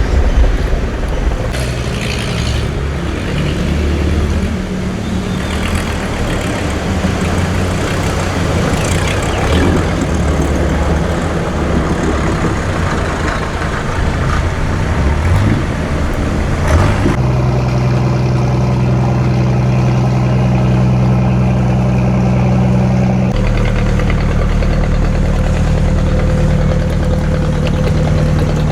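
A boat engine running steadily, with rough water and wind noise over it. About two-thirds of the way through, the engine note changes abruptly to a cleaner, steadier hum, and it changes again near the end.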